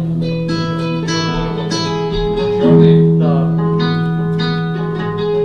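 Live plucked-string music, guitar-like: a sustained low note with plucked notes ringing over it, a stronger pluck a little past halfway.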